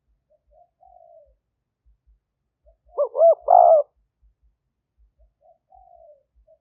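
Spotted dove cooing: a soft falling coo, then a loud rolling coo phrase about three seconds in, then another soft falling coo near the end.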